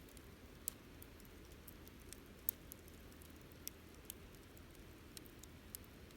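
Wood campfire crackling faintly: about half a dozen sharp, irregular pops over a low steady hiss, the loudest about two and a half seconds in.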